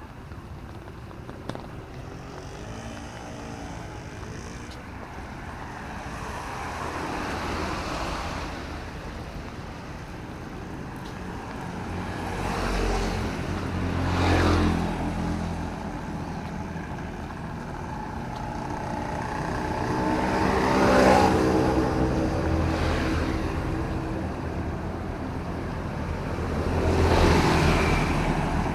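Motor vehicles passing one after another on a wet road, about four pass-bys that each swell and fade, with tyre hiss and engine hum over a steady background of traffic noise.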